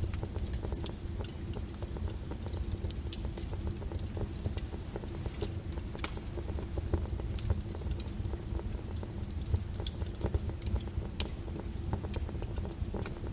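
Wood fire crackling and popping in a fireplace: irregular sharp snaps over a steady low rumble of the flames, one louder pop about three seconds in.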